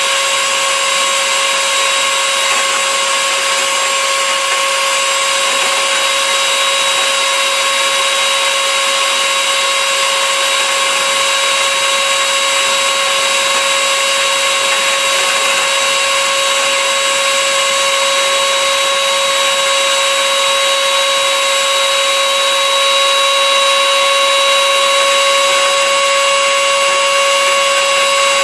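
Blendtec Total Blender motor running steadily at speed: a loud, continuous whine over a rushing noise, its pitch creeping up slightly near the end.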